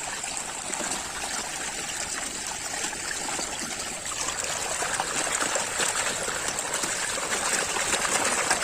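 Running water trickling and splashing steadily as muddy plastic toys are rinsed, a little louder about halfway through.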